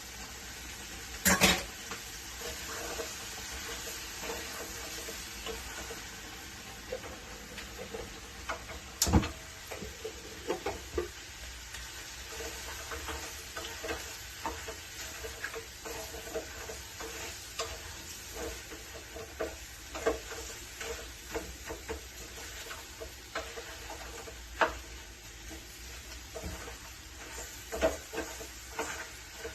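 Food sizzling in a pan while being stirred with a utensil, with scattered knocks and scrapes of the utensil against the pan and two sharper clanks, one about a second and a half in and one about nine seconds in.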